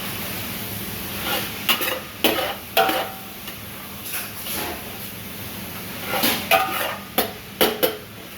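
Food sizzling in a hot pan with a steady hiss, while a metal utensil stirs it, scraping and clanking against the pan. The clanks come in two bunches, from about a second in and again around six seconds in.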